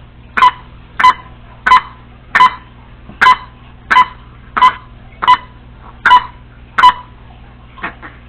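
Congo African grey parrot giving a short, sharp call over and over, about ten times at an even pace of roughly one every 0.7 seconds.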